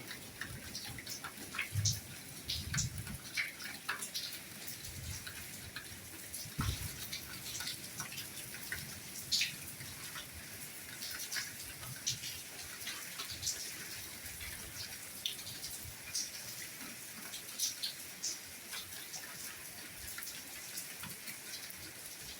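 Soft steady rainfall: a hiss of rain with many separate drops ticking and pattering close by, and now and then a duller low plop.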